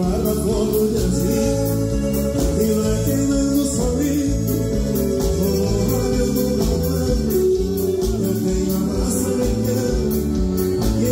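Gaúcho band music in an instrumental stretch between sung verses: sustained, organ-like accordion notes over a steady, repeating bass line.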